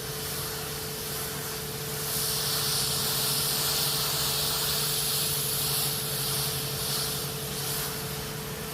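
Battery-powered Kärcher pressure washer running, its pump motor humming steadily while the nozzle sprays with a loud hiss. The spray hiss grows louder about two seconds in and eases off near the end.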